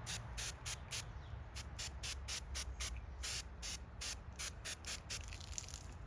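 Trigger-pump bottle of foam window cleaner sprayed in a rapid run of short hissing squirts, about three or four a second, stopping about five seconds in. A low traffic rumble is heard beneath.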